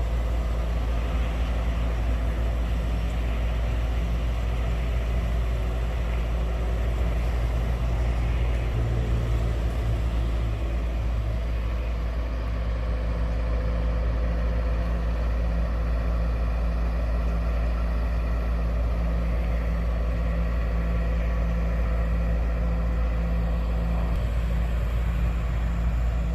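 A large engine running steadily at constant speed, a deep even drone with a low hum, typical of heavy machinery working nearby.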